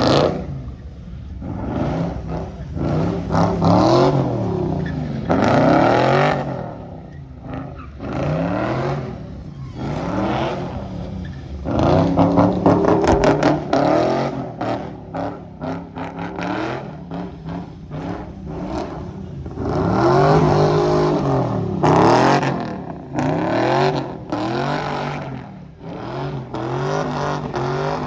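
Car engine revved hard over and over, its pitch climbing and dropping back every second or two, as at a sideshow.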